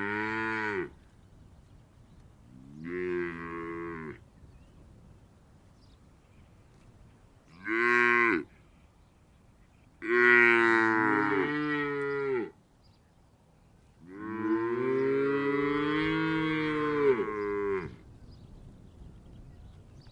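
Cow mooing: five separate moos of different lengths with quiet gaps between, the shortest under a second and the last, longest one about four seconds.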